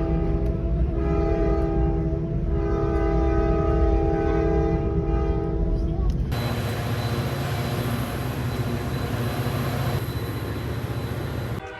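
Commuter train horn sounding a chord of several notes in long blasts with short breaks, over low train rumble. About six seconds in it cuts off abruptly to a steady rushing noise.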